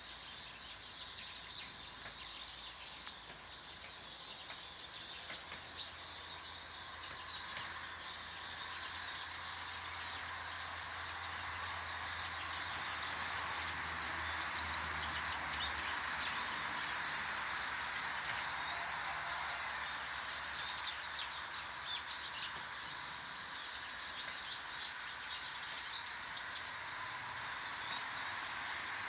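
Small garden birds chirping and twittering around a bird table, many short calls over a steady outdoor rushing background that grows louder in the middle. A faint low hum runs through the first half, and one brief louder sound comes a little after two-thirds through.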